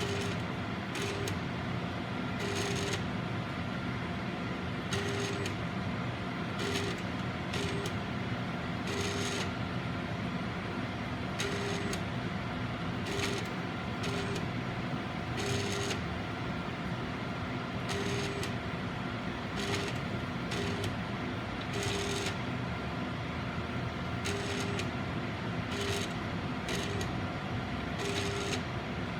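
Agilent 7693A autosampler sample tray making short mechanical whirs, each under a second, at uneven intervals over a steady instrument hum. These are sounds the owner finds strange and abnormal for the tray.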